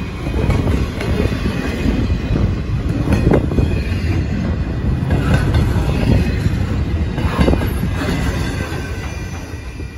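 Intermodal freight train's container well cars rolling past close by: a steady rumble of steel wheels on rail, with a few sharp clanks and a faint high wheel squeal. The sound fades near the end as the last cars go by.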